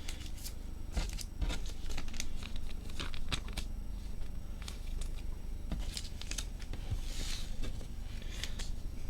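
Trading cards being slid into plastic sleeves: light crinkling and rustling of plastic with scattered small clicks and taps, and a longer swish about seven seconds in.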